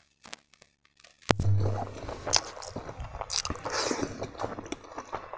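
A man chewing a mouthful of rice and smoked pork close to a clip-on microphone, with crunchy bites and chewing. It starts after about a second of near silence.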